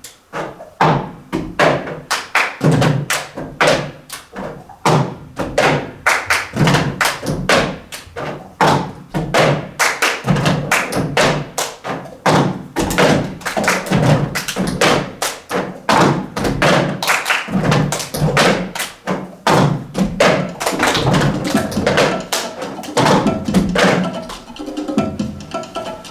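A rapid, irregular run of knocks and taps, several a second, like percussion played along with music.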